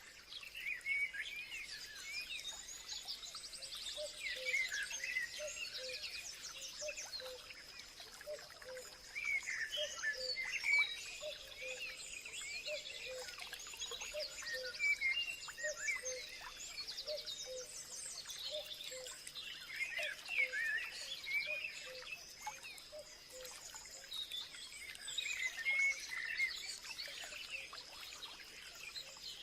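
Many birds chirping and singing at once in a busy chorus of quick, overlapping calls and trills, over a steady thin high tone and a short low note repeated again and again.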